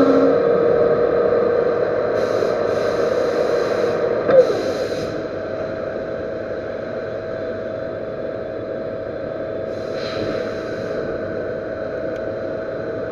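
Metal lathe running, turning a repaired servo motor shaft, with a steady machine hum. Two stretches of hiss come in partway through, and there is one short knock about four seconds in.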